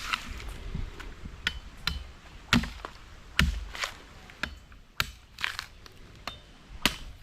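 A series of sharp cracks and knocks at irregular intervals, about a dozen in seven seconds.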